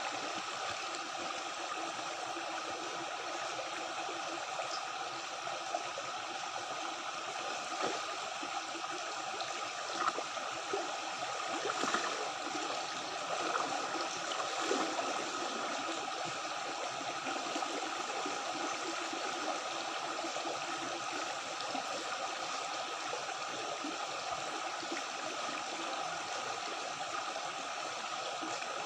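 Stream water running and gurgling steadily, with a few brief louder splashes around the middle.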